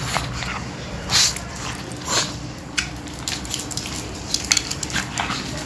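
Pug puppy eating a protein laddu from a bowl: irregular chewing, smacking and clicking, with two louder smacks about a second and two seconds in.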